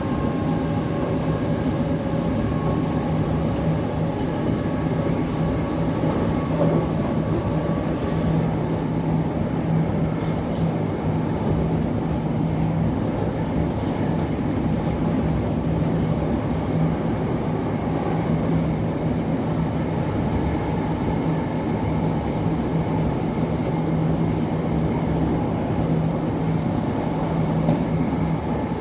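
Class 707 electric multiple unit running between stations, heard from inside the carriage: a steady rumble of wheels on rail under a continuous low hum. Higher motor tones fade out about eight seconds in.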